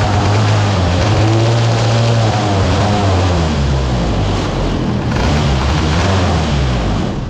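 Sprint car engines at racing speed on a dirt oval: a loud, steady engine drone whose pitch falls about three seconds in. The sound cuts off suddenly at the end.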